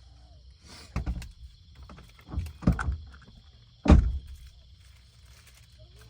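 Several dull thumps and knocks, the loudest about four seconds in, over a faint steady high hum.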